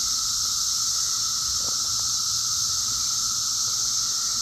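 Dense chorus of seventeen-year periodical cicadas: a steady, unbroken drone made of a high hiss over a lower held buzzing tone.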